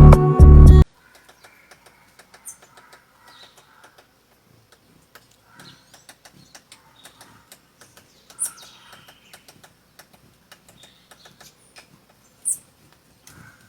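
Acoustic guitar music ends within the first second. Then a woodpecker pecking wood: faint, irregular taps, with a few short high bird chirps, the loudest about eight and twelve seconds in.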